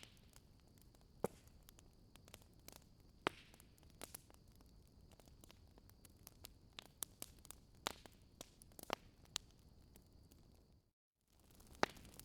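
Wood fire crackling quietly, with irregular sharp pops and snaps over a faint hiss. The sound cuts out completely for a moment about eleven seconds in, then the crackling resumes.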